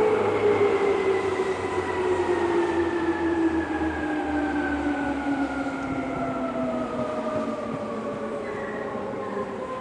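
Electric commuter train pulling into the platform, its motors whining in several tones that fall steadily in pitch as it brakes, over a low rumble that slowly eases off.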